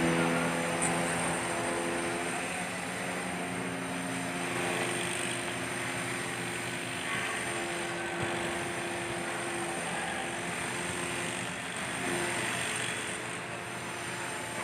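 Engine of a truck-mounted hydraulic crane running steadily, its hum shifting a little in pitch now and then.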